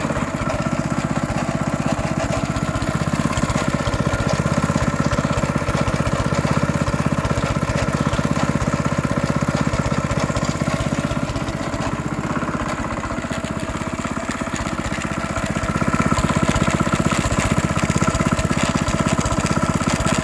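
Honda GX160 single-cylinder four-stroke engine running steadily with a rattle or grinding from inside it, a little quieter for a few seconds past the middle. The engine otherwise runs well, with no smoke, clear oil and good compression; the owner cannot place the cause of the noise.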